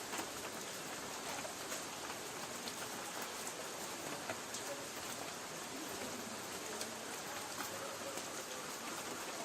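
Light rain falling steadily on a tin roof, an even hiss scattered with many small sharp drop ticks.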